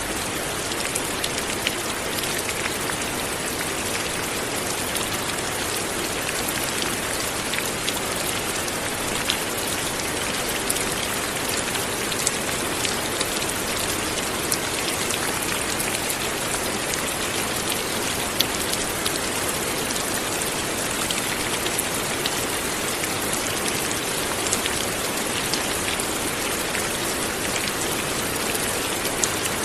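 Light rain falling steadily, an even hiss with scattered individual drops ticking through it.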